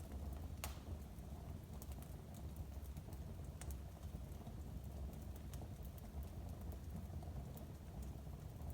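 Wood fire burning in a home fireplace: irregular crackles and pops over a steady low rumble of the flames, with a sharp pop about half a second in.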